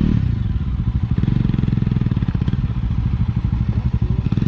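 Bajaj Dominar's single-cylinder engine: the revs fall just at the start, then it chugs steadily at low revs.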